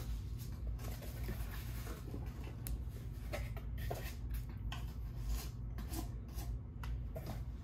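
Trading card packs being handled and sorted: scattered light crinkles, rustles and taps of the pack wrappers, over a steady low hum.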